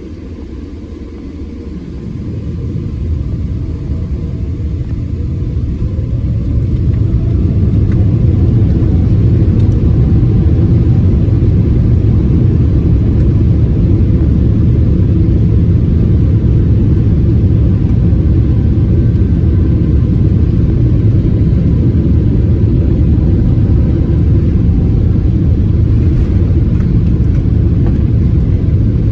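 Airliner takeoff heard from inside the Airbus A330-300 cabin: a deep rumble of the engines and the takeoff roll builds up from about two seconds in and then holds steady and loud.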